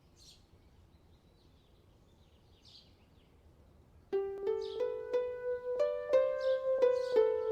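Near silence with a few faint high chirps for about four seconds, then background music of plucked, harp-like notes starts and plays on.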